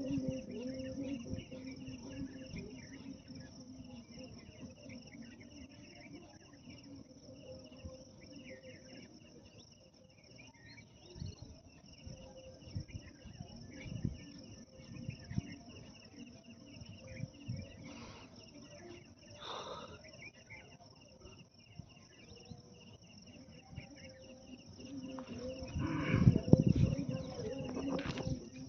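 Crickets chirring steadily, with scattered low thumps and a louder low rumble near the end.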